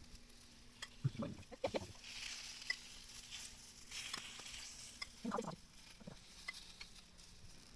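Batter frying in a hot pan with a soft, steady sizzle that swells a little in the middle, and a few light clicks of utensils.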